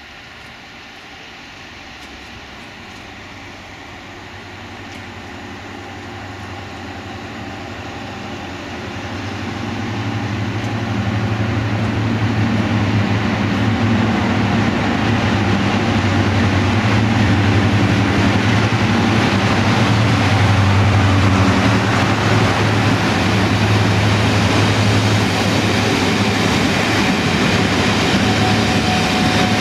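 A train approaching, growing steadily louder over about twelve seconds, then running past loud and steady with a low drone under the rumble of its wheels.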